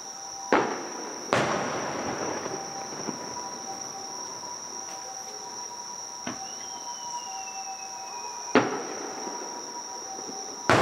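Distant aerial firework shells bursting: three sharp booms, about half a second in, just over a second in and again about eight and a half seconds in, the second followed by a trailing crackle.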